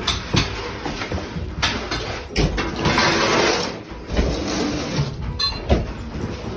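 Interior demolition work while a house is being gutted: a string of knocks and thuds, with a longer scraping rush of debris about two and a half seconds in.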